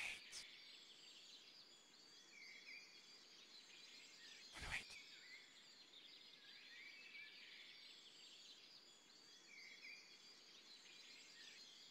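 Faint birdsong from several small birds, with quick chirps and trills throughout. A single short thump comes a little before the middle.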